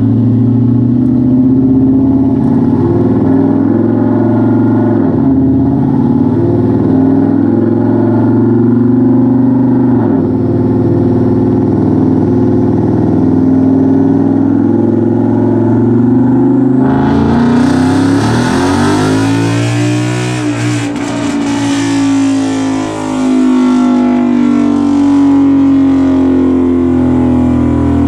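V8 car engine running steadily on a chassis dyno. About 17 seconds in, a loud rushing noise joins it, and the engine note swells up and falls back before settling again.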